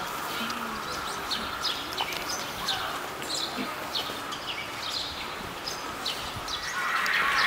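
Small birds chirping, short high falling calls repeated throughout. A steady hiss with a thin high tone swells in near the end.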